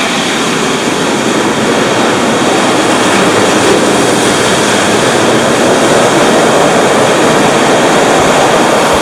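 Loud, steady rushing of ocean surf washing over the rocks.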